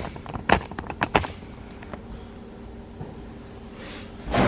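Kitchen handling noises: three sharp knocks or clacks in the first second and a half over a steady low hum, then a louder rustling burst near the end.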